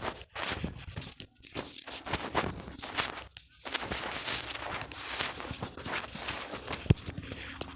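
Automatic rotary fly ash brick making machine running, with a rapid, irregular series of knocks and clanks over mechanical noise and one sharp hit near the end.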